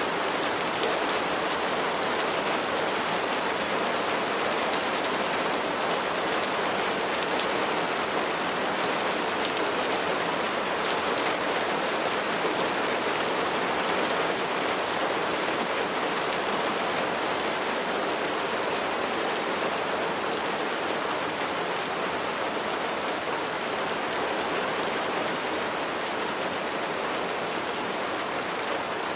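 Steady rain: an even hiss with many fine drop ticks.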